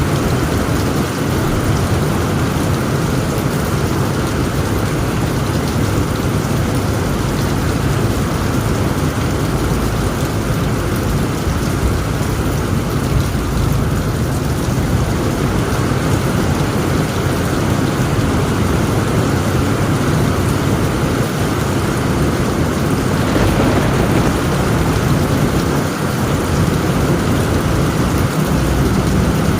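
Heavy rain falling steadily on a tent roof, with a low rumble of thunder beneath it. The rain grows a little louder and brighter about three-quarters of the way through.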